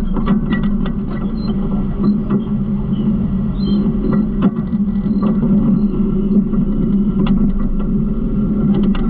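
Garbage truck engine running steadily with a loud low hum, with scattered short knocks and rattles.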